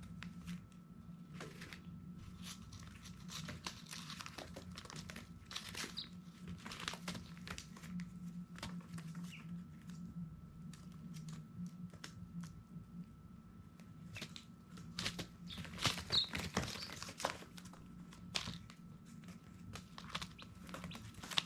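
Baby chicks scratching and pecking about on crinkly bedding or paper: a run of light scratching and crinkling clicks that grows busier and louder about two thirds of the way in. A couple of short high peeps come through, one near the middle and one later, over a steady low hum.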